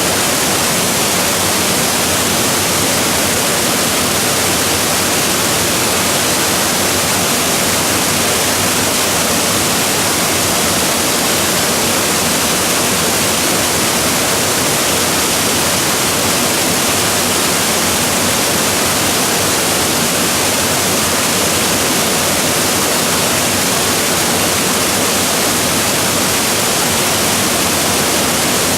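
Waterfall pouring: a loud, steady rush of falling water with no change.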